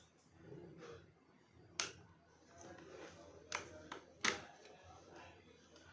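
A few short, sharp clicks or taps, four in all, the loudest a little past the middle, over a faint murmur of room sound.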